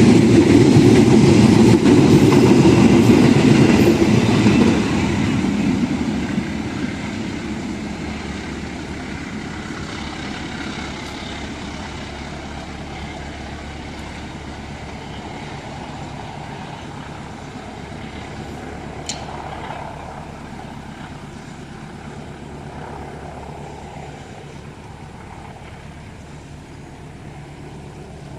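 A train running past close by, loud for the first few seconds, then steadily fading as it moves away down the line.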